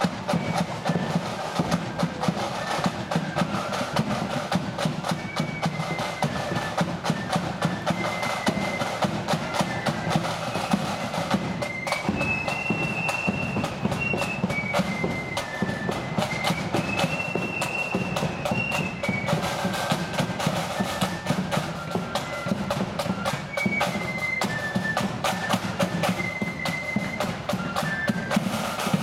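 Blood-and-thunder flute band playing a march: a melody on high flutes over rapid snare drumming and bass drum beats.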